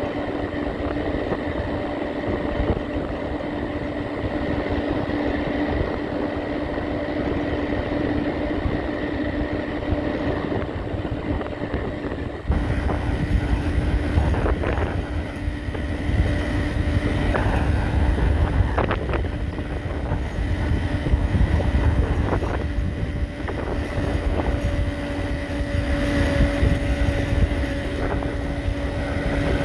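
Mid-drive electric bike motor running with a steady, unchanging whine, over a low rumble that gets louder suddenly about twelve seconds in; a few short clicks follow a couple of seconds later.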